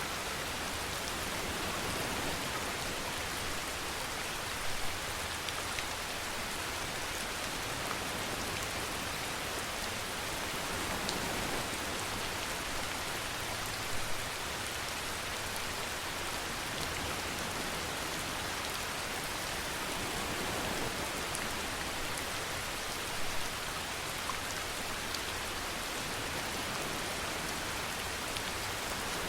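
Steady rainfall, an even hiss of drops falling on a surface, with three brief louder spatters spread through it.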